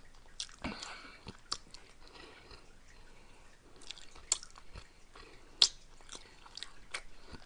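A person chewing food close to the microphone, with scattered sharp mouth clicks. Two of the clicks are louder, a little past the middle.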